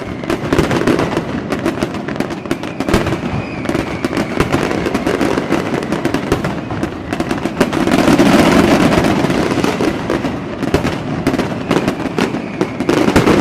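Fireworks going off in quick succession: a dense run of pops and bangs that grows louder about eight seconds in.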